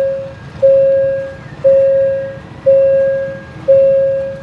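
Railway level-crossing warning bell striking about once a second, each stroke a single ringing tone that fades out, over a low rumble.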